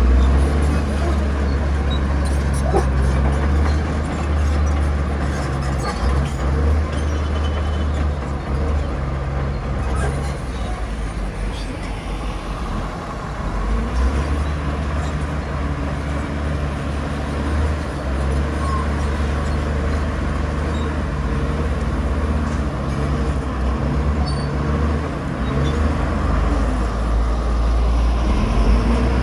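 Komatsu bulldozer's diesel engine running steadily as it pushes soil, easing off briefly about twelve seconds in and then picking up again.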